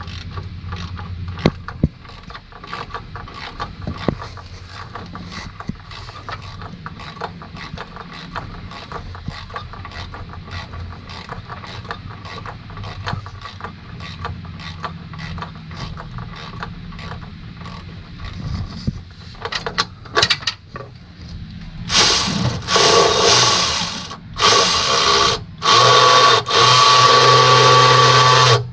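Hand ratchet clicking quickly and steadily as a bolt is worked loose. Near the end, several loud bursts of a power tool run with short gaps between them.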